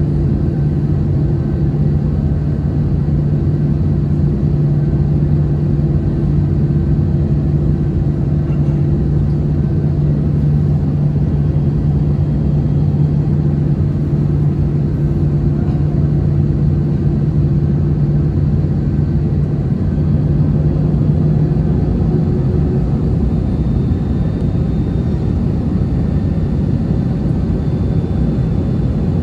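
Airliner cabin noise inside an Airbus A321-211: steady engine drone with a low hum. About two-thirds of the way through the hum fades, and near the end a higher tone comes up.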